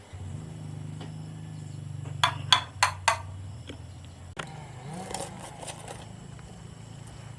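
Four sharp knocks in quick succession, about a third of a second apart, over a low steady hum that cuts off about four seconds in; a short rattling clatter follows about a second later.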